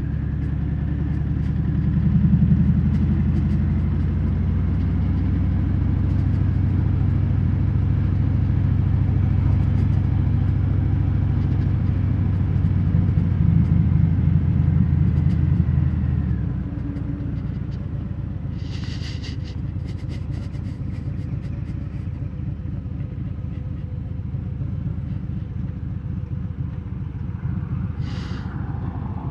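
Harley-Davidson Fat Bob's V-twin through Vance & Hines Hi-Output slip-on mufflers without quiet inserts, heard from inside the rider's helmet. It pulls under throttle, rising in pitch in the first seconds and holding a loud, deep exhaust note. A little past halfway it drops off to a quieter, steady run as the throttle eases.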